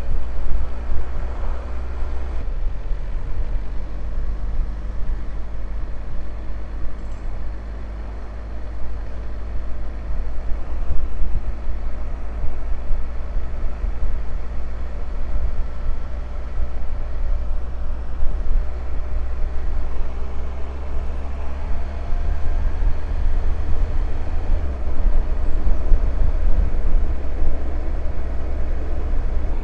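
Motorcycle engine running steadily at cruising speed, with the rush of wind and road noise on the rider's microphone.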